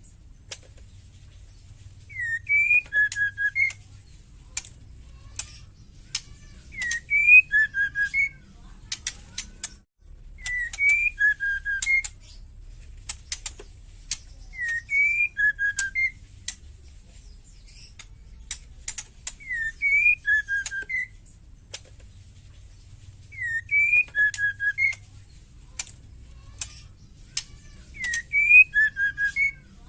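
Female white-rumped shama giving her wild chattering call ('ketrekan'): a few short whistled notes mixed with sharp clicking chatter, about two seconds long. The same bout repeats about every four seconds. Keepers play this call to provoke male shamas into singing.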